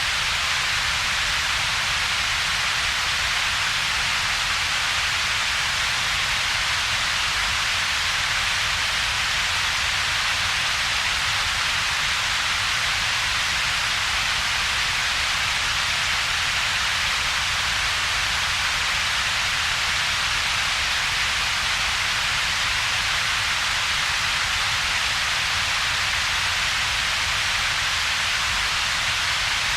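Synthetic double-peaked noise: a steady, even hiss centred in the upper middle range with a separate low rumble beneath it and little in between, unchanging throughout.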